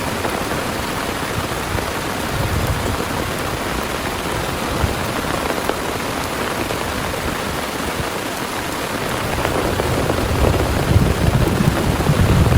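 Heavy rain falling steadily. Near the end a low rumble builds and the rain grows louder.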